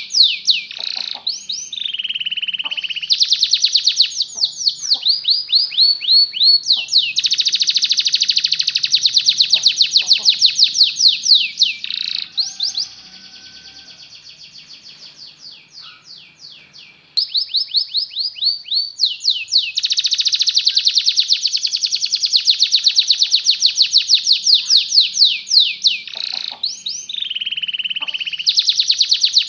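Domestic canary singing in long, fast rolls of rapidly repeated sweeping notes. About thirteen seconds in, the song drops to a much quieter passage for about four seconds, then returns loudly and suddenly.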